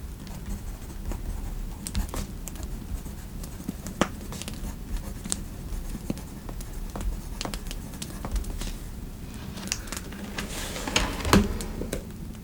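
Fireplace crackling, a steady low rumble with scattered sharp pops. Near the end comes a brief rustle with a soft knock, the loudest sound here.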